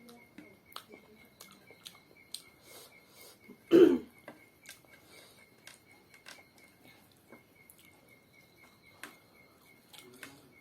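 Eating sounds: small clicks and smacks of chewing and handling food, with one louder short sound about four seconds in. A faint insect chirp repeats at high pitch about four or five times a second behind it.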